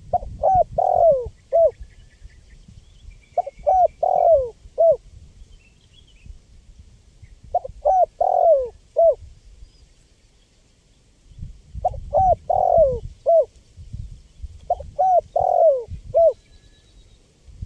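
Spotted dove (tekukur) cooing its song: five phrases of about four short coos each, a few seconds apart, over a low background rumble.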